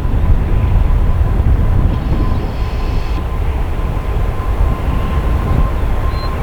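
Jet airliner engine noise: a loud, steady, deep rumble with a thin steady whine above it.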